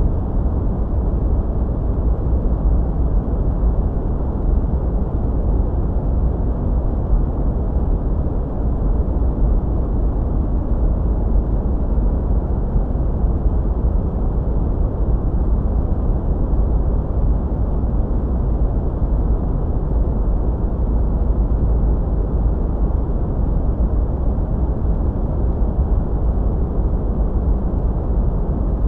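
Steady sleep-aid noise: a deep, even rushing sound weighted toward the low end, with little high hiss. It runs unchanged, with no rhythm or separate events.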